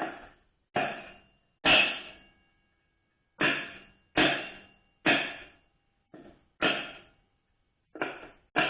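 A part being tapped into a 4L60E automatic transmission case: about ten sharp metallic knocks at irregular intervals roughly a second apart, each ringing briefly. The part is not yet seating.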